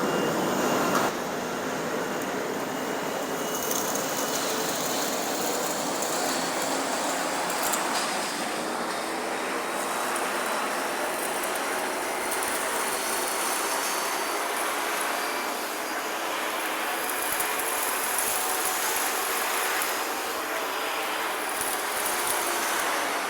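EMD-series industrial explosion-proof vacuum cleaner running steadily, its motor whine still rising in the first second as it comes up to speed, while it vacuums up dust from the floor.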